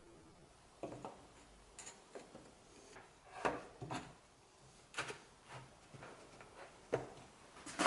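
Irregular wooden knocks, clicks and light scraping, about a dozen, as pieces of wood are handled and worked by hand; the sharpest knocks come in the second half.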